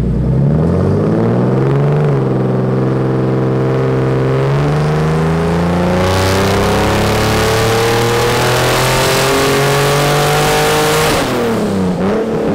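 Turbocharged BMW E36 M3 inline-six making a full-throttle dyno pull: the engine note climbs steadily in pitch for about eleven seconds, with two brief dips early on, and a loud rushing exhaust sound builds from about halfway. Near the end the throttle closes and the revs fall quickly, with one short blip.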